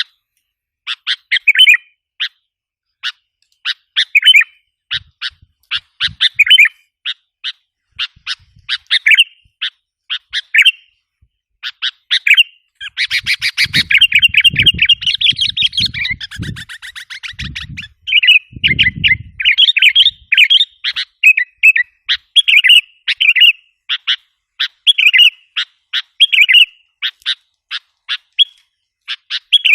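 Sooty-headed bulbul (kutilang) calls: short chirping phrases repeated again and again, with a fast, dense run of chattering notes about halfway through.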